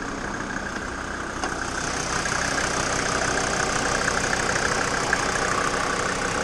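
Mercedes-Benz 290GD 2.9-litre five-cylinder turbo diesel idling steadily, a little louder from about two seconds in.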